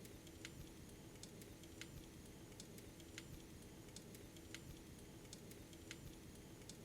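Faint fireplace crackling: sharp irregular pops, one or two a second, over a soft hiss and a low steady hum.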